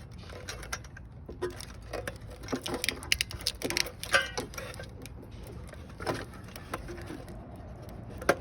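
Irregular clicks, taps and light metallic clatter of hand tools and cable fittings being worked loose on a Toyota Prius hybrid battery pack, busiest in the middle, with one sharp knock near the end.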